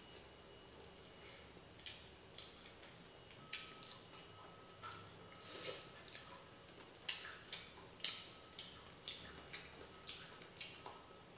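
Faint eating sounds: wet smacking clicks of a mouth chewing fried egg and rice, coming irregularly about two a second.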